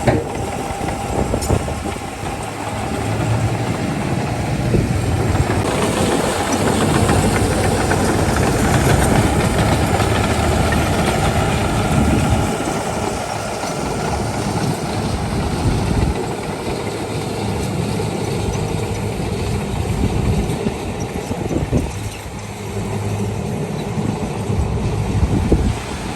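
Diesel engine of heavy earthmoving machinery running under work, its level rising and falling, with clanking mixed in.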